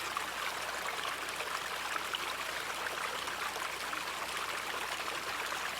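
Gentle river running steadily, a field recording of the flowing water.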